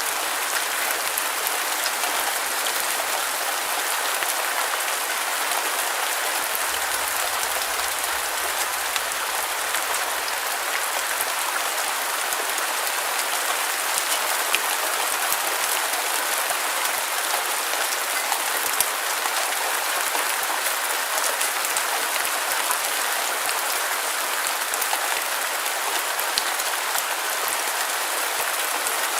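Steady rain falling, an even hiss dotted with small drop ticks and little low rumble.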